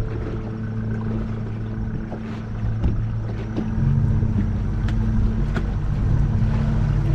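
Motorboat engine running steadily under way, then throttling up about four seconds in, louder and higher in pitch.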